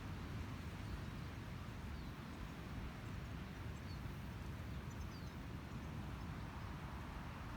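A few faint, short, high bird chirps, clustered about two to five seconds in, over a steady low rumble of outdoor background noise.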